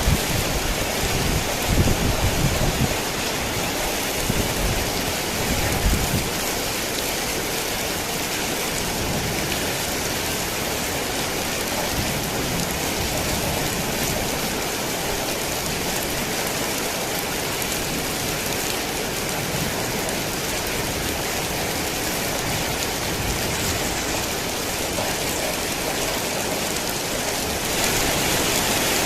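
Heavy rain falling steadily, with low thunder rumbles in the first few seconds. About a second before the end the sound steps up abruptly to a louder, brighter rush of water.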